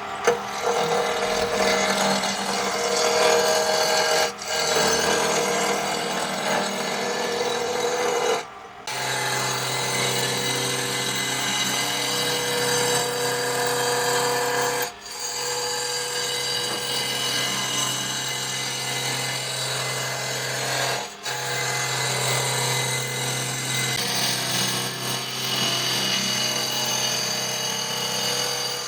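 Electric power tool running steadily on wood, with short breaks about four times.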